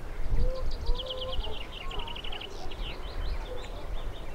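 A small songbird singing a quick run of high chirping notes, at about ten notes a second in the middle of the phrase, over a low rumble of wind on the microphone.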